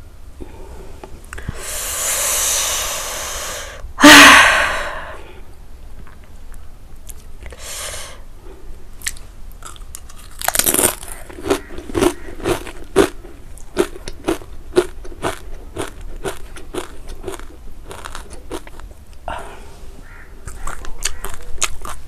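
Crisp, crunchy chewing of the Jolo chip, many sharp crunches in quick succession from about nine seconds in. It comes after a long hiss and a loud sudden sound about four seconds in.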